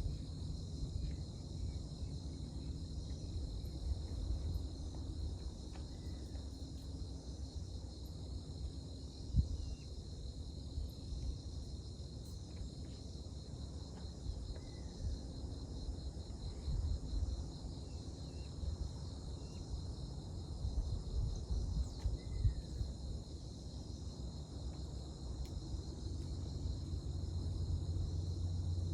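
Steady high-pitched chirring of insects, likely crickets, over a constant low rumble, with a few faint short chirps and a single soft knock about nine seconds in.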